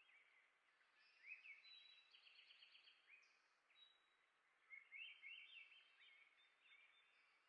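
Faint songbird chirps and quick trilled phrases. Two bursts of rapid, rising high notes come about a second in and again near five seconds, with quieter chirps in between.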